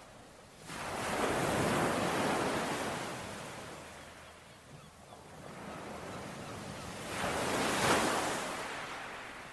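Ocean waves washing onto a shore: two surges of rushing surf, one building about a second in and another near the end, each fading away in between.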